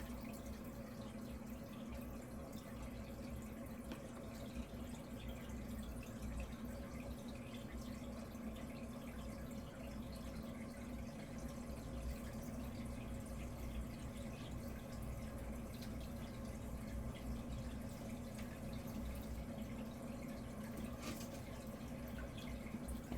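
Aquarium water trickling and dripping steadily, with a constant low hum from the tank's equipment.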